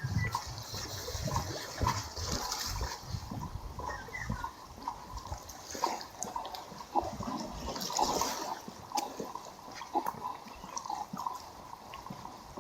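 Sea waves washing against the shore, swelling twice, with the walker's footsteps clicking on a hard walkway.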